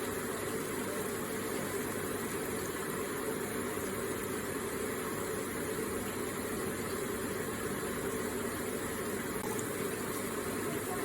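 Electric water feature with water running and splashing steadily.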